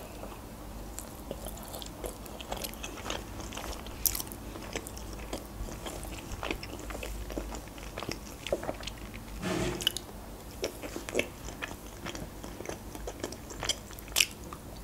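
Close-miked chewing of grilled chicken eaten by hand: small wet mouth clicks and biting, with a few sharper clicks about four seconds in and near the end. The last of these comes as a cherry tomato is bitten.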